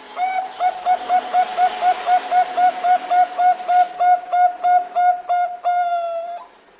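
Zebra dove (perkutut bangkok) singing: a quick run of about twenty short cooing notes, roughly four a second, ending in one longer drawn-out note.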